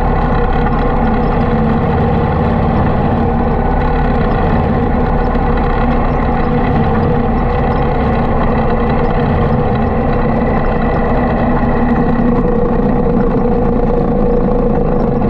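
Harley-Davidson motorcycle engine running steadily at cruising speed while riding, holding an even pitch with no clear revving or shifting.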